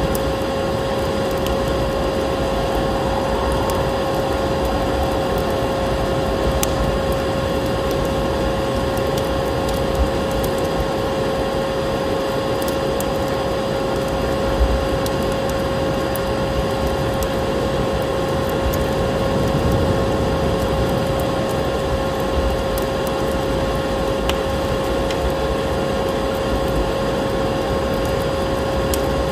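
Vacuum cleaner running steadily: an even rush of air with a constant motor whine held on one pitch, and scattered faint clicks.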